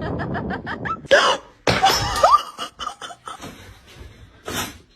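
A person laughing in a quick run of short bursts, followed by a few brief vocal sounds and a short hissing burst near the end.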